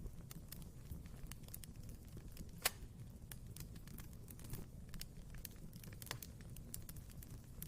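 Wood fire crackling in a fireplace: frequent sharp crackles over a low rumble from the flames, with one loud pop about two and a half seconds in.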